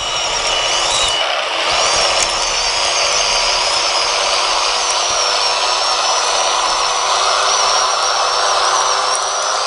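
Scale RC bulldozer's small electric drive motors and gearboxes running steadily, a mechanical whir with a high, wavering whine that comes in about two seconds in.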